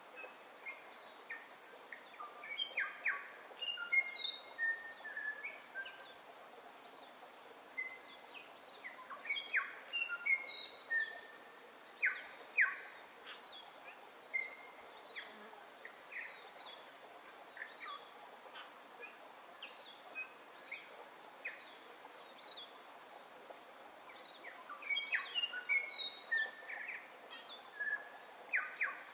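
Several birds singing: a steady run of short chirps and whistles, with a brief high trill about three-quarters of the way through, over a faint outdoor hiss.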